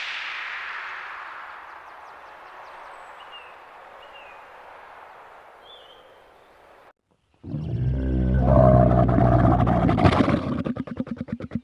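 A steady outdoor hiss with a few faint bird chirps, then after a short break a loud, deep animal roar of a large animal, which turns into a fast rattling growl near the end.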